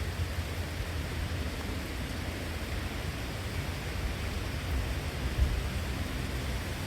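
Steady rushing background noise with a low, unsteady rumble and no distinct events.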